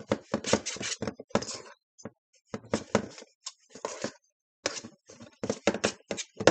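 A fork scraping and tapping against a bowl while shredding cooked chicken: quick, irregular strokes in clusters, with a short lull about two seconds in.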